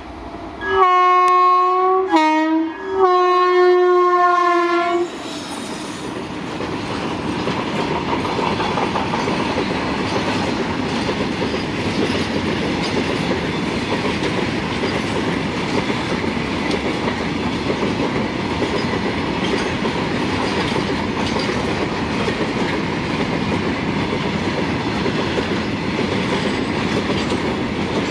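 WAG-7 electric locomotive's horn sounding about a second in: a long blast, a brief lower note, then a second long blast, about four seconds in all. After it the long rake of BCNA covered goods wagons rolls past with a steady rumble of wheels on rail.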